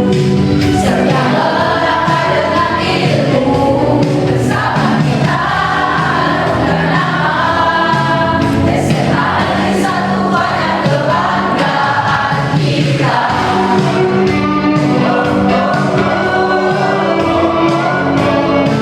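School choir singing a march song in Indonesian.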